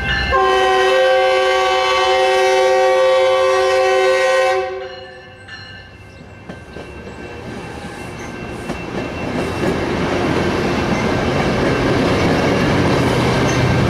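A train horn sounding a sustained chord of several tones, breaking briefly at the start and cutting off about four and a half seconds in. Then a rumbling noise builds steadily louder.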